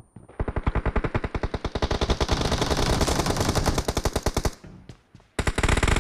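Video-game automatic rifle fire: a long burst of about ten shots a second lasting some four seconds, a short pause, then another burst near the end.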